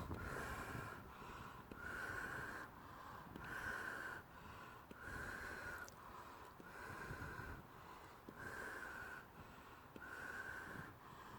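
A person breathing hard and audibly close to the microphone, a wheezy breath about every second and a half.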